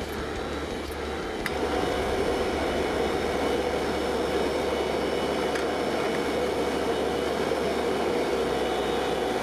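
Steady rushing roar with a low hum beneath it, getting louder about one and a half seconds in and then holding level.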